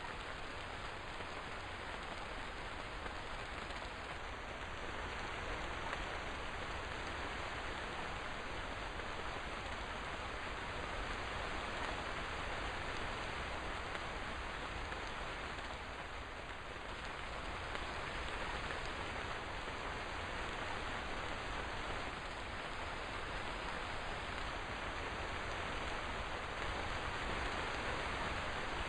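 Rain falling steadily, an even hiss with no separate drops or thunder standing out.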